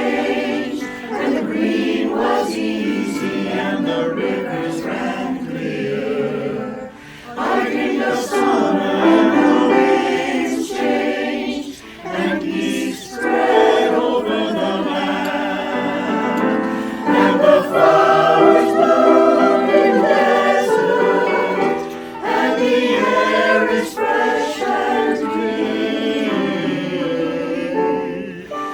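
A choir singing in sustained phrases, with short breaths between phrases about 7 and 12 seconds in.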